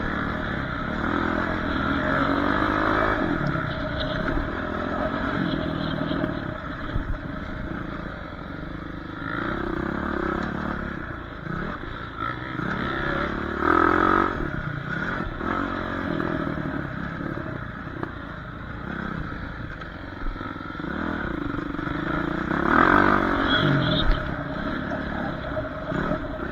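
Dirt bike engine running and revving up and down, with louder surges about fourteen and twenty-three seconds in.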